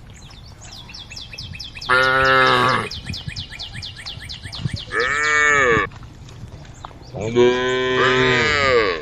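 Cows mooing: three loud calls about two, five and seven and a half seconds in, the middle one rising and then falling in pitch. A faint rapid high ticking runs underneath.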